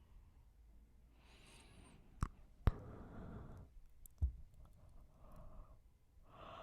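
Close-miked breathing and yawning: an airy breath, then soft breathy yawn-like exhales, with three sharp clicks about two, two and a half and four seconds in.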